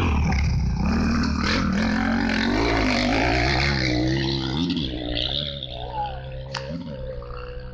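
Motocross bike engine revving up and down, loud, then fading about four and a half seconds in to a quieter, steadier engine note.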